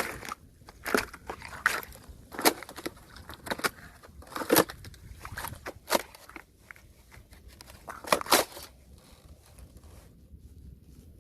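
Thin, freshly frozen ice crunching and cracking in a string of sharp, irregular snaps, about one a second.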